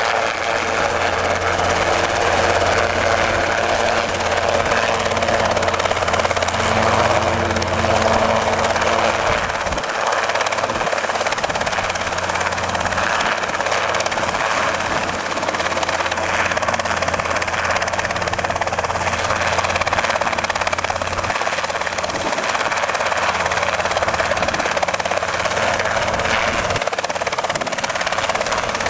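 Robinson R22 helicopter running: a steady, continuous drone of its four-cylinder piston engine and rotor, with a low hum underneath that thins out about ten seconds in.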